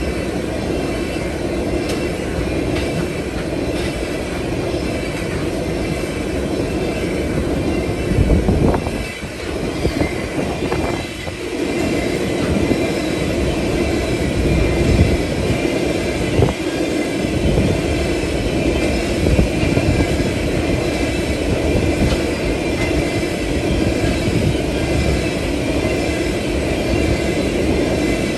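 Freight train of tank cars rolling past: a steady rumble of steel wheels on rail, with some squealing.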